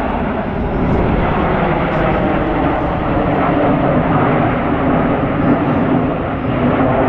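Formation of BAE Hawk T1 jets in flight, giving a steady, loud jet engine noise.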